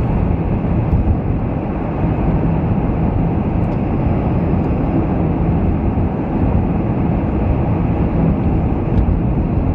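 Car driving on a snowy, icy road: a steady low rumble of tyre and engine noise.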